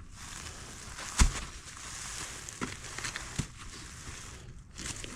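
A cut log section being handled and rolled on the leafy trail: a sharp knock about a second in, then two lighter knocks, over a steady rustling hiss.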